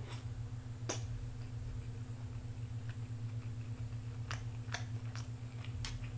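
A person chewing a mouthful of rice and potato, with scattered soft mouth clicks and a metal spoon tapping a takeout container, over a steady low electrical hum.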